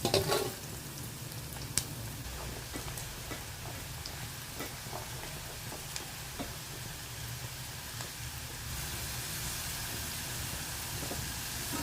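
Masala-coated okra (lady's finger) frying in hot oil over a high flame: a steady sizzle, with a few light clicks.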